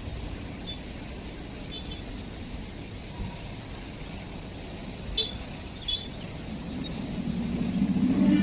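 Steady rumble of a running train, with two short clanks about five and six seconds in and a low hum swelling near the end.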